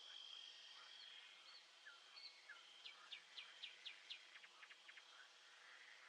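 Faint nature-soundscape ambience: an insect trilling steadily on one high note early on, and a bird calling with short notes, then a run of about five quick downward-sweeping chirps around the middle, followed by a brief rapid rattle.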